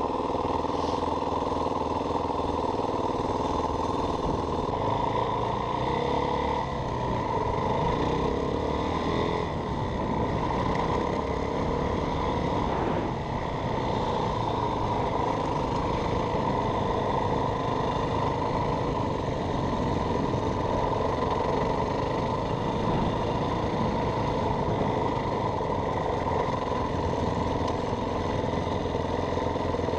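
2016 Yamaha WR450F dirt bike's 450 cc single-cylinder four-stroke engine running steadily while the bike is ridden, its pitch shifting a little.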